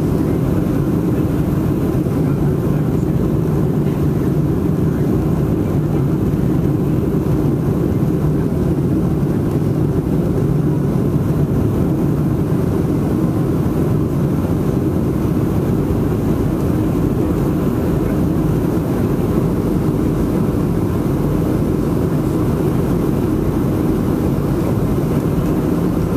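Cabin noise inside a Boeing 737-700 in flight on approach: a steady, deep rumble from its CFM56 jet engines and the airflow over the fuselage, with a low hum.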